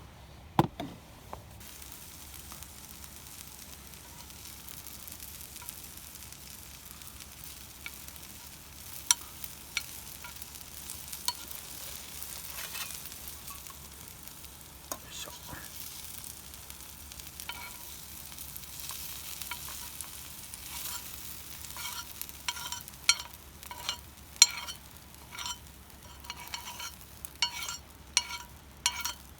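Food sizzling on a hot iron griddle plate, stirred with a metal utensil. In the last several seconds a run of sharp metallic clinks and scrapes as the utensil knocks on the plate.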